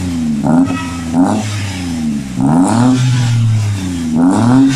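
Toyota Agya's 1.0-litre three-cylinder engine running through an aftermarket Alpino F01 muffler with resonator, blipped about four times from idle, each rev rising quickly and dropping back.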